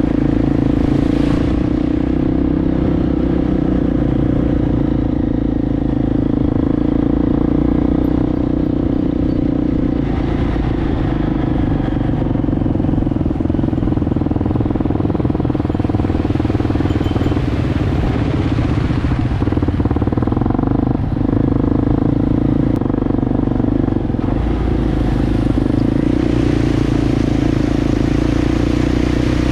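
Enduro motorcycle engine running at a steady speed while riding, holding an even pitch throughout.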